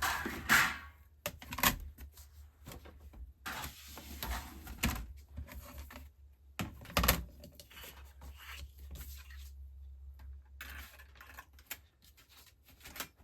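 Scattered clicks and knocks with paper rustling as small die-cutting machine plates and cardstock are handled: a few sharp taps of hard plastic being set down, between stretches of sliding and shuffling paper.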